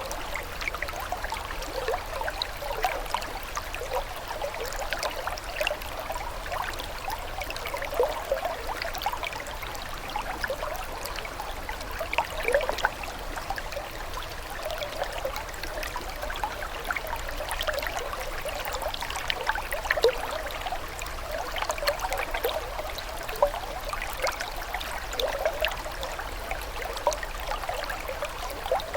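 Water trickling and burbling steadily over stones, a small stream with many quick little splashes and gurgles and now and then a slightly louder splash.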